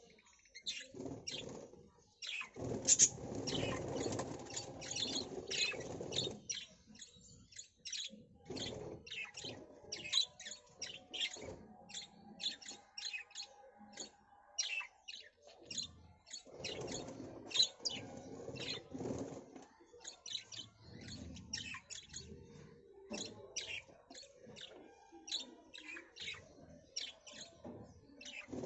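Birds chirping: a rapid, uneven run of short, sharp, high calls, with stretches of low rumbling noise underneath.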